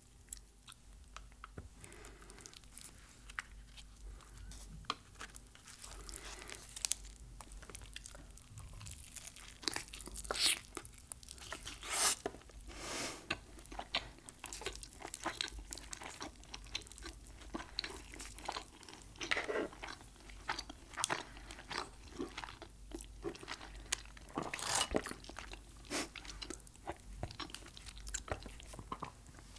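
Close-miked eating: biting into and chewing crunchy Mexican food, a run of irregular crisp crunches, a few of them loud.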